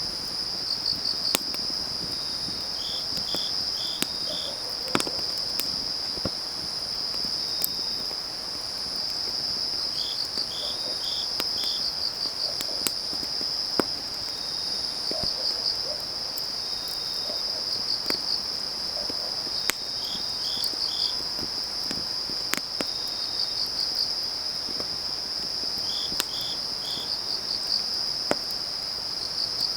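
Autumn night insects: a steady high cricket trill, with another insect giving short runs of three or four chirps every several seconds. A wood fire crackles underneath with sharp pops now and then.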